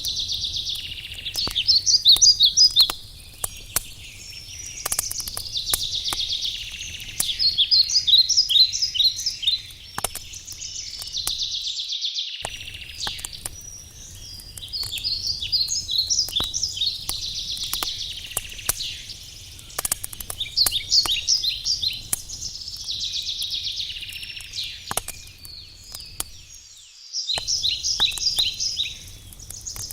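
A songbird singing the same short phrase over and over, every few seconds, each a buzzy note followed by a quick run of chirps, over the sharp pops and crackle of a burning wood campfire. A low steady hiss underneath cuts out briefly twice.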